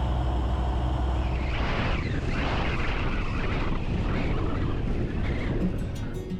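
Wind rushing past an ultralight plane gliding with its engine switched off for a practice engine-out landing. A low steady hum gives way about one and a half seconds in to a louder, wavering rush of air.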